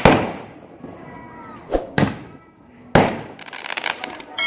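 Fireworks going off: a loud bang at the start, two smaller bangs close together near two seconds, and another loud bang about three seconds in followed by a spell of crackling.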